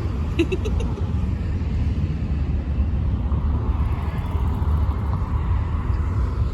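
Motorcycle and street traffic running, a steady low rumble.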